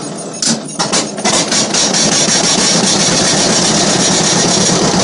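1950 John Deere B's two-cylinder engine starting from cold on choke: a few irregular firing knocks, catching about a second in, then running steadily.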